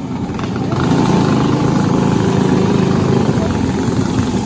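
A Briggs & Stratton LO206 single-cylinder four-stroke kart engine running under power, getting louder about a second in and then holding steady.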